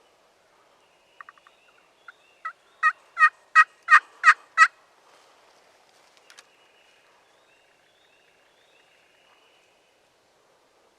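Turkey yelping: a run of about eight evenly spaced yelps, about three a second, building in loudness.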